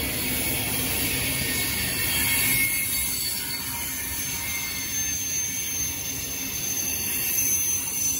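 Freight train of loaded tank cars rolling past: a steady rumble of steel wheels on the rails, with thin high-pitched wheel squeals coming and going.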